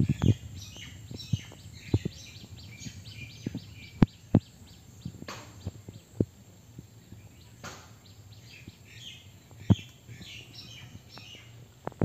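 Birds chirping: a steady run of short, high chirps. Several sharp low knocks now and then are the loudest sounds.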